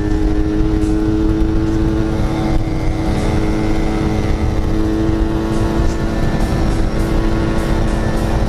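Yamaha RX-King's 135 cc two-stroke single-cylinder engine running at a steady pace while the bike is ridden, with a constant low rumble of wind.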